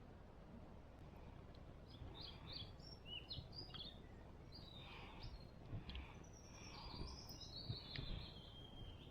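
Bird chirping, a string of short high twittering notes starting about two seconds in, over faint steady background noise.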